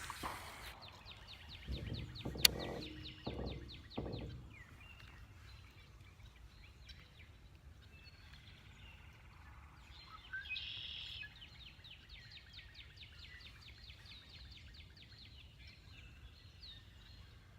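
Faint outdoor ambience with a bird's rapid trill of evenly spaced chirps, heard twice, a sharp click a couple of seconds in and a few soft low thumps early on.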